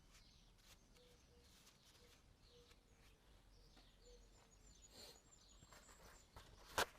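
Near silence with faint birdsong chirping in the background, and one sharp click or knock near the end.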